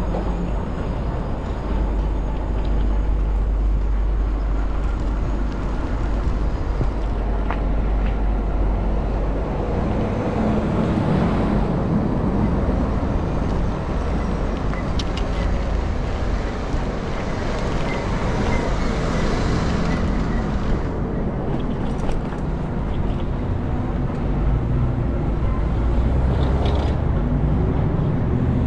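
Inside a moving city bus: the steady low rumble of the bus and road, with a few brief rattles and clicks.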